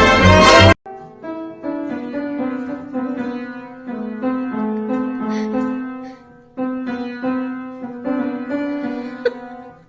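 Loud music cuts off abruptly under a second in, giving way to a soft piano melody played note by note, fading toward the end.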